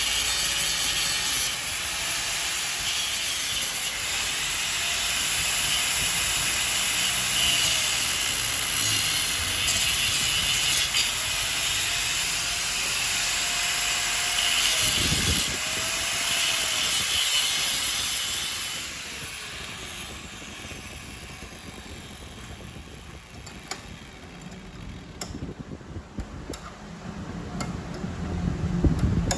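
Workshop machinery running with a steady loud hiss, a faint tone rising and falling about every second and a half, then winding down about 19 seconds in, leaving scattered clicks and knocks.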